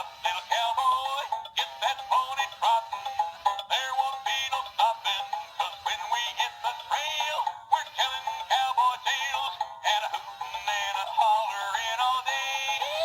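Sound N Light animatronic toy horse singing its built-in song through its small speaker: a thin, tinny recorded voice with music and no bass.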